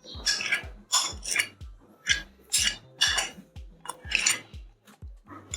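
Spoon scraping and knocking against a bowl in quick repeated strokes, about two a second, as the spiced marinade is scraped out over the chicken pieces.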